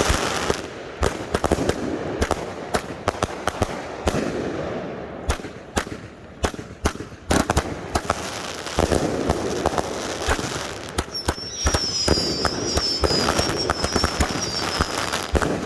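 Consumer fireworks cakes firing: rapid, overlapping sharp reports and crackling bursts. A high wavering whistle runs for about four seconds past the middle.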